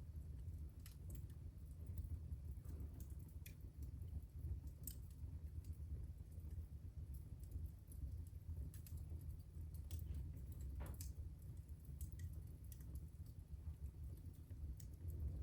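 Wood fire burning in a fireplace, crackling with scattered, irregular snaps and pops over a steady low rumble.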